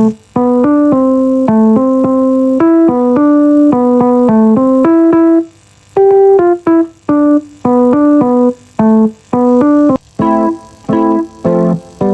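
Electric piano chords being played in a rhythmic pattern, with a short pause about halfway through, then clipped, staccato chords.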